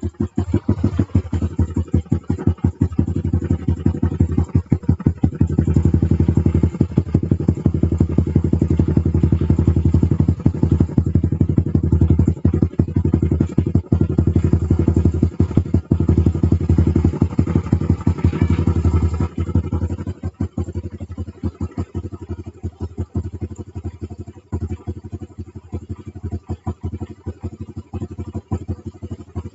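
Yamaha Aerox scooter's 190cc single-cylinder four-stroke engine running through an aftermarket Razer-style exhaust, held at raised revs with a steady, rapid exhaust pulse, then dropping back to a rougher idle about two-thirds of the way through.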